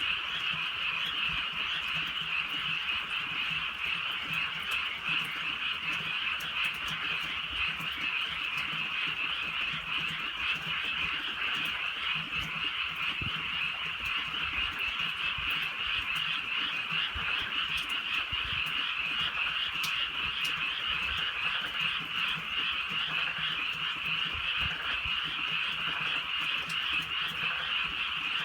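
A dense chorus of many frogs calling at once, their croaks overlapping into a continuous, even trill with no pause.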